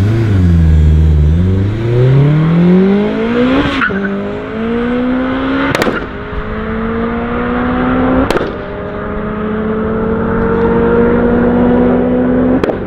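Honda Civic's four-cylinder engine accelerating hard from a standing start. The revs dip at the launch, then climb through the gears, with four upshifts about 4, 6, 8 and 12.5 seconds in, each a brief break followed by a drop in pitch.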